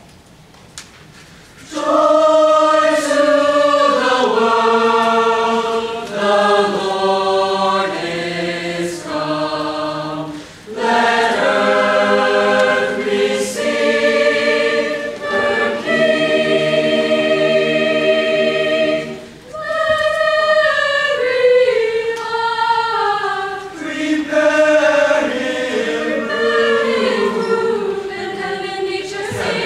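Choir singing sustained chords in several parts, coming in about two seconds in after a brief hush, with short breaks between phrases around ten and twenty seconds in.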